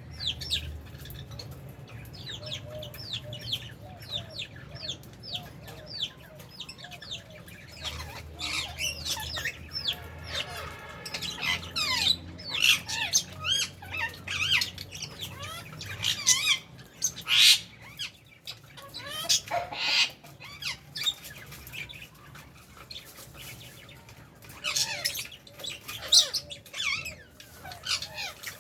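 A flock of lovebirds and budgies chattering, with rapid high chirps and sharp squawks overlapping throughout and a few louder calls scattered through.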